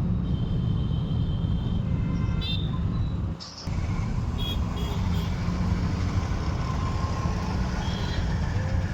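Steady rumble of a car driving through city traffic, with short vehicle horn toots several times. The sound drops out briefly about three and a half seconds in.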